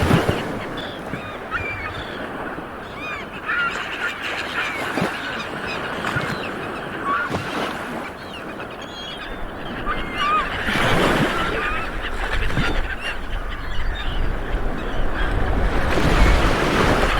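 Small waves washing onto a beach, with a louder surge about eleven seconds in and another near the end, while many birds call overhead in short, repeated calls.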